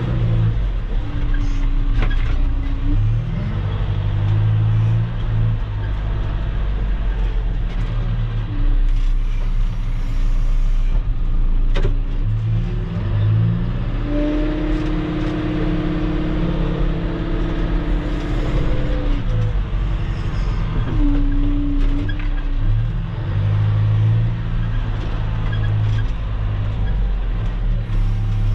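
Engine of a machine dragging gravel road base, running steadily under load with its revs rising and falling several times, and a couple of sharp clanks.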